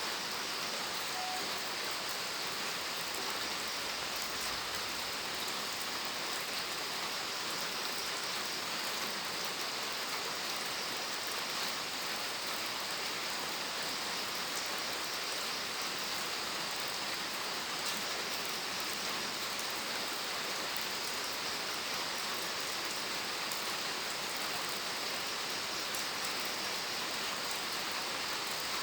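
Steady rain falling on a surface, an even hiss with faint scattered drop ticks through it.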